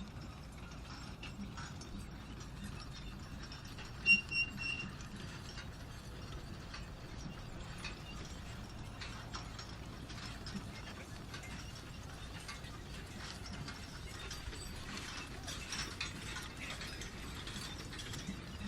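A mechanical tool or machine working, with a steady rattle of many small clicks and a short squeak about four seconds in.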